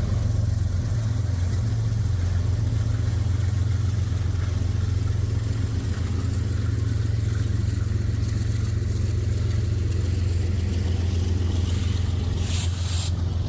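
Diesel engines of BNSF 1253, an NRE 3GS21B genset switcher locomotive, running with a steady low drone. Two short hisses come near the end.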